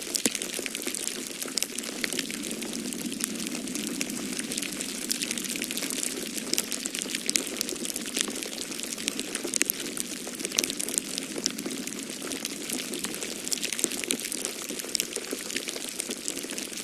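Wood fire in a fireplace crackling, with frequent irregular sharp pops and snaps over a steady hiss. A steady low rush of storm wind runs underneath.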